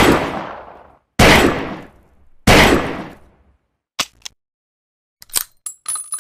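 A Saturday night special revolver fires three shots about a second and a quarter apart, each blast trailing off in a ringing echo. Then come a couple of sharp clicks and a short run of light metallic clicking from the gun's mechanism.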